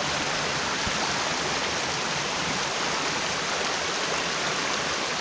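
Mountain stream rushing steadily over rocks, running full after heavy rain.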